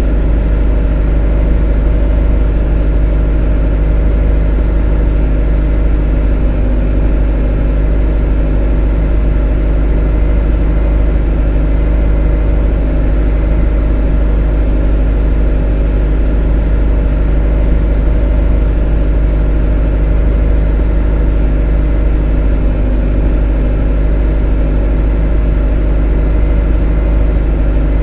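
A motor running steadily at one unchanging speed, an even drone with a strong low hum underneath.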